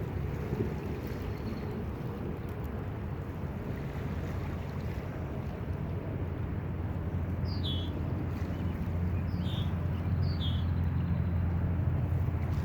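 Wind rumbling on the microphone, with three short, descending bird calls between about seven and ten seconds in.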